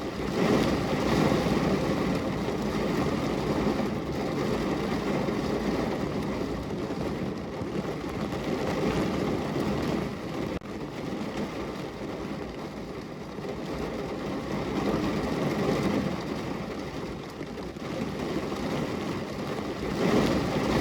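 Heavy rain falling on a car's roof, heard from inside the car: a dense, steady patter that swells and eases every few seconds.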